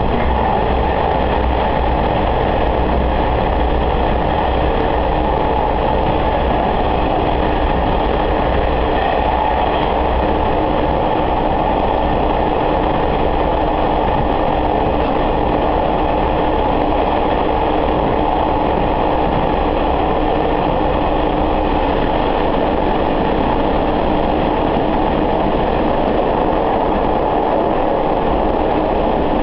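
Sanriku Railway diesel railcar heard from inside the car: a steady drone of the diesel engine and rail running noise that does not let up.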